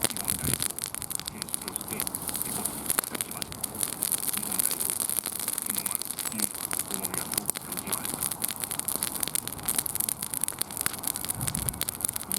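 Wood campfire burning, with dense irregular crackles and pops over a steady hiss.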